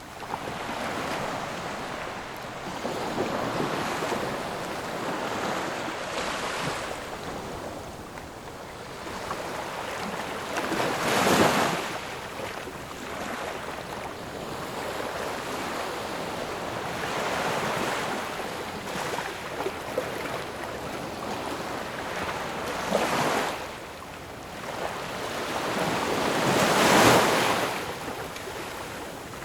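Ocean waves breaking and washing on a shore, a continuous surf wash with a few louder breakers swelling and receding, the biggest about eleven seconds in and near the end.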